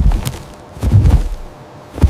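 Tiger's heavy footfalls, low thuds about one a second.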